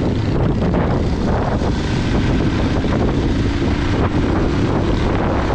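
Hero XPulse motorcycle's single-cylinder engine running steadily while riding, mixed with heavy wind buffeting on the microphone.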